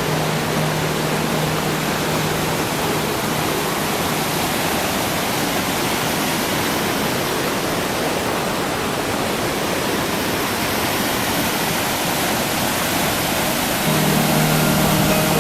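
Steady rush of flowing water, an even hiss with no breaks. Low background music fades out in the first few seconds and returns near the end.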